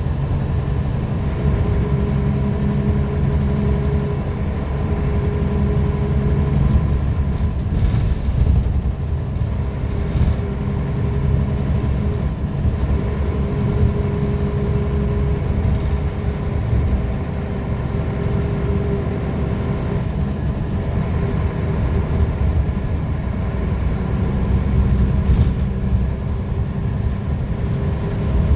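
Scania L94UB bus's 9-litre five-cylinder diesel engine and ZF automatic gearbox running as the bus is driven. The engine note strengthens and eases every few seconds over a steady whine.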